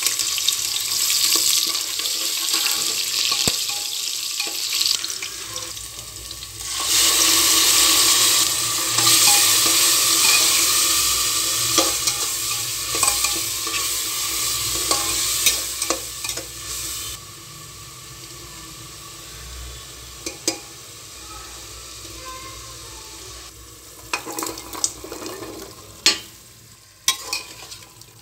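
Sliced onions and spices sizzling in hot oil in a pressure cooker, with a louder surge of sizzling about seven seconds in. The sizzle dies down past the middle, and near the end a spatula scrapes and knocks against the cooker as jackfruit pieces are stirred.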